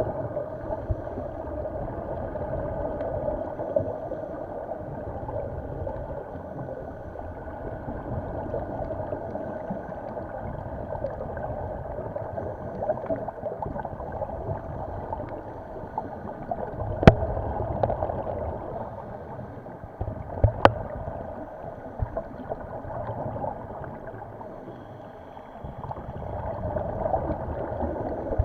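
Muffled underwater water noise with gurgling from scuba bubbles, swelling and easing every several seconds. Two sharp knocks come about two-thirds of the way through.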